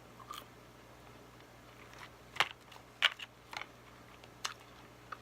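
Eating sounds close to the microphone: someone biting and chewing soft McDonald's chicken nuggets, with about five short, sharp mouth clicks and snaps spread through the chewing.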